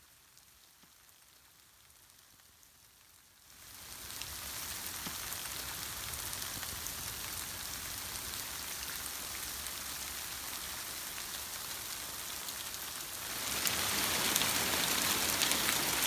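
Rain falling steadily, coming in abruptly about four seconds in after near silence and growing heavier near the end.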